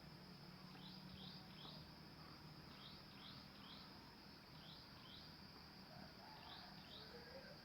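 Faint outdoor ambience of insects trilling steadily on one high note, with short high falling chirps in twos and threes about every two seconds. No junglefowl crow is heard.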